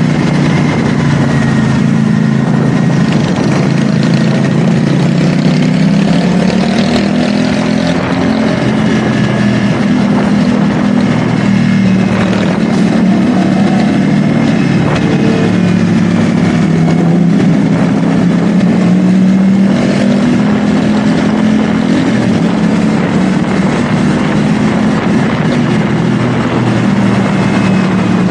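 CFMoto 450SR S parallel-twin engine running steadily under way, its pitch rising and falling gently with small throttle changes, over a constant rush of wind noise.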